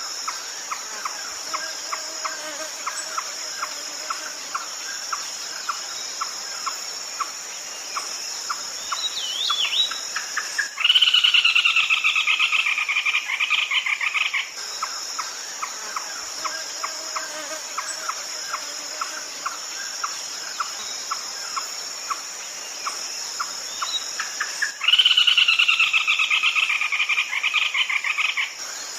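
Red-legged crake calling, a bird-call recording of the kind played as a night lure: a loud, rapid, pulsed trill that falls slightly in pitch, lasting about four seconds, a little over ten seconds in and again near the end. Between the trills there is a steady ticking about three times a second under a constant high insect buzz.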